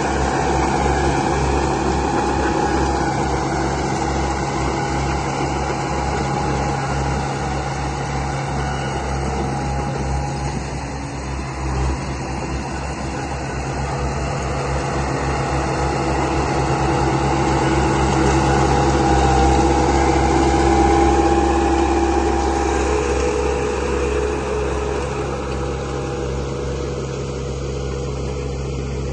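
Radio-controlled model construction vehicle running: a steady engine-like hum with a pulsing low rumble and motor whine that drifts slightly up and down in pitch.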